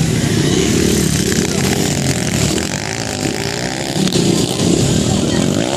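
Motocross bike engines running on the track, rising and falling in pitch as they rev.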